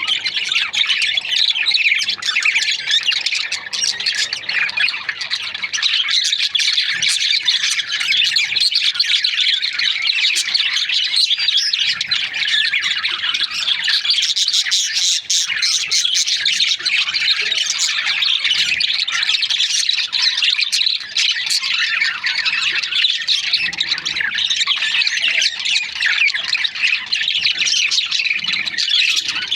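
A group of budgerigars (budgies) chattering and chirping continuously, many birds calling over one another without a break.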